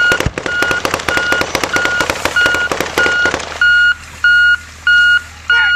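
A long burst of rapid automatic gunfire lasting about three and a half seconds, over the steady electronic beep of an armoured truck's reversing alarm repeating about every 0.6 s as the vehicle backs up.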